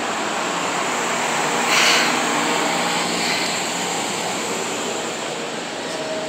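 A Seibu 2000 series electric train pulling into the platform, with steady running noise from its wheels on the rails. The noise swells briefly louder and brighter about two seconds in.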